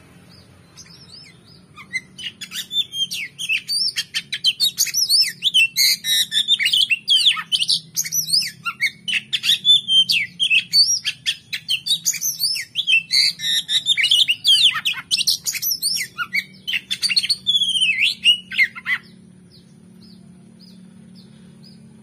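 Oriental magpie-robin (kacer) singing a loud, fast stream of varied whistles and chattering phrases, starting about a second in and stopping about three seconds before the end, over a faint low hum.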